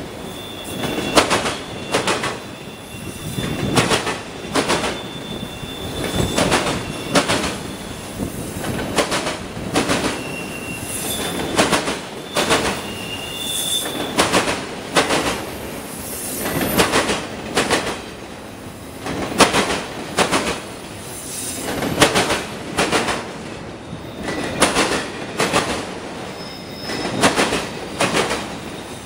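Freight train of autorack cars rolling past, its wheels clacking in clusters as each car's trucks cross the rail joints, with thin high-pitched wheel squeal coming and going.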